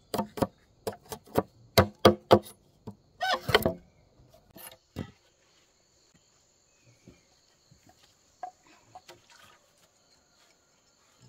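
A run of sharp knocks, a little under two a second, that stops about five seconds in. Under it, and plainly after it, insects chirr steadily.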